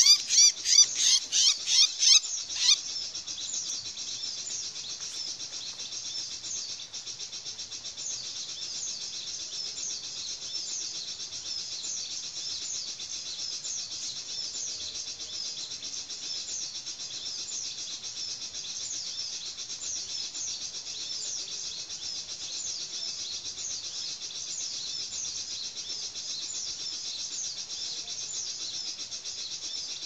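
Dense, high-pitched bird chirping made of quick falling notes repeated over and over. A louder run of rapid calls at the start cuts off suddenly after about two and a half seconds.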